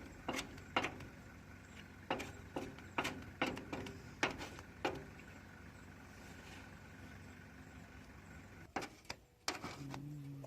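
Light, irregular knocks and taps, about a dozen in the first five seconds, over a steady low hum, with two more knocks near the end.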